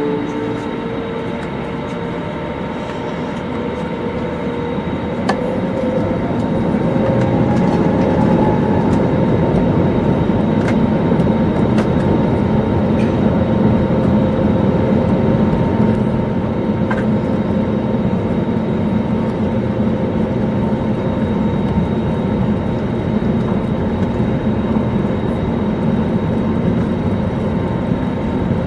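Airbus A321neo cabin noise: a steady engine and airflow rumble heard from inside the cabin. A pitched engine whine rises over the first few seconds, and the rumble grows louder about six to eight seconds in, then holds steady.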